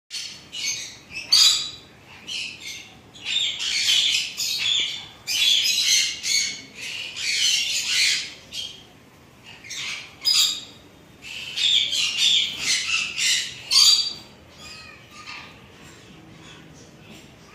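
Birds chirping and squawking in quick high-pitched bursts, thinning out to a few faint calls after about fourteen seconds.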